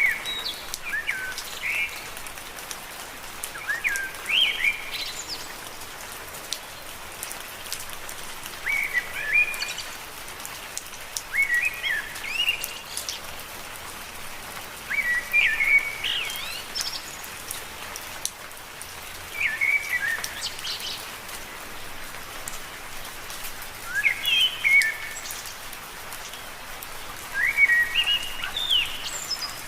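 Steady rain falling on leaves, with fine pattering drops. Over it a bird repeats a short chirping phrase of quick up-and-down notes about every three to four seconds.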